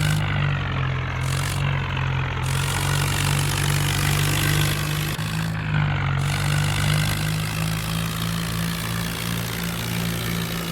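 Tractor diesel engine running hard with a steady drone; its pitch shifts slightly now and then.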